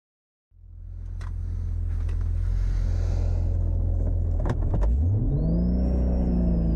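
Toyota Supra's turbocharged 2JZ straight-six engine idling, fading in, with a few sharp clicks, then rising in revs about five seconds in and holding there, a high turbo whine climbing along with it.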